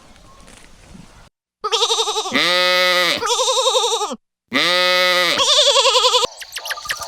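Bleating: two long, quavering bleats in a row, the second a repeat of the first. Insects start chirping near the end.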